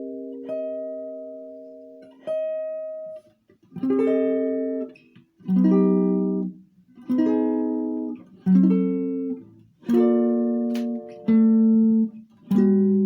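Solo guitar playing a slow chord melody: single chords struck about every second and a half, some left ringing and others damped short.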